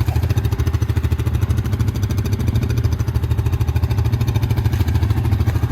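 ATV engine running at a steady speed, with an even, rapid firing pulse.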